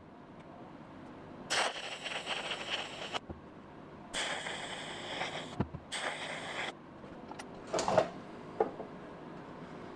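TIG welding arc hissing in three short bursts, each starting and stopping sharply, as holes in a car's steel quarter panel are tacked and filled. A few light knocks follow near the end.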